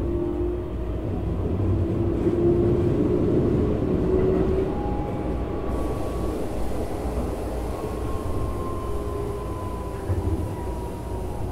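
Interior sound of a Keikyu New 1000 series (1800 subseries) electric train: a steady low rumble with faint whining tones, one of them sliding slowly lower near the end.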